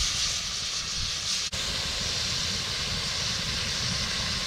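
Chopped tomatoes, shallots and rosemary sizzling in a hot pan over a campfire, a steady hiss, with a low steady rumble underneath.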